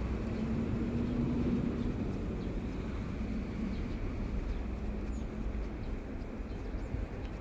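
Steady low rumble of a running vehicle, with a faint hum in the first two seconds.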